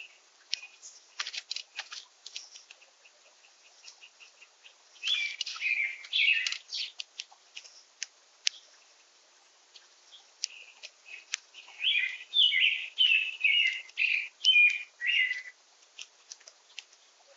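Songbirds at a backyard feeder: two phrases of slurred, repeated song notes, one about a third of the way in and a longer one near the end, over a scatter of short sharp clicks and ticks.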